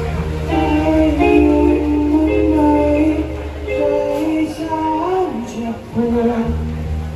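Live band playing during a sound check: low held bass notes under a moving melody line, the bass dropping out briefly about six seconds in.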